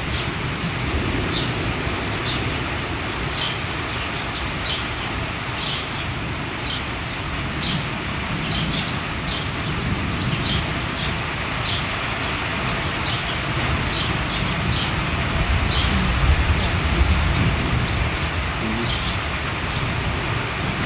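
Steady rain during a thunderstorm, with a bird giving short high chirps about once a second throughout. A low rumble of thunder swells up about three-quarters of the way through.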